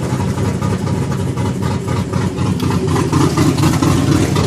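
Cammed 6.0 L LS2 V8 of a Pontiac GTO idling with a choppy big-cam lope. The exhaust runs through Magnaflow mufflers with the electric cutouts closed.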